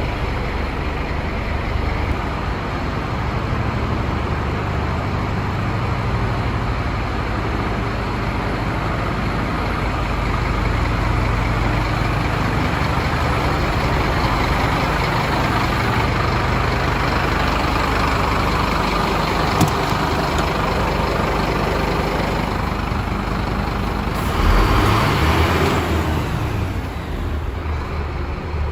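Scania diesel engine running steadily, with a louder, brighter surge lasting a second or two near the end.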